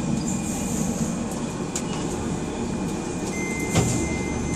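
Docklands Light Railway train running, heard from inside the front of the car: a steady rumble of wheels and motors. A single knock comes near the end, and a thin steady high whine starts just before it.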